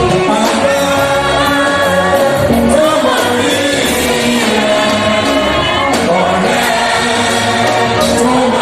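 A choir singing gospel music with instrumental backing, with a steady bass line underneath.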